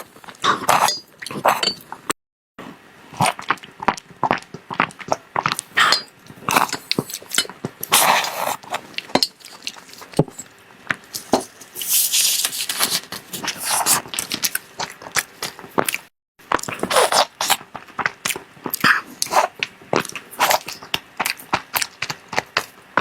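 Close-miked eating of desserts: irregular crunching, chewing and sticky mouth sounds, with a few clinks, and two brief total dropouts.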